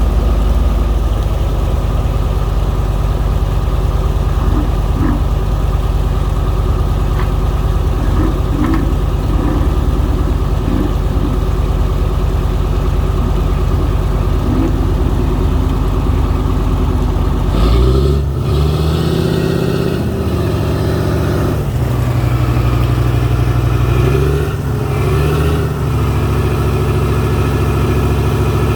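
Boat engine running steadily, then changing speed as the boats are manoeuvred: its pitch shifts and bends about two-thirds of the way through, and again a few seconds later.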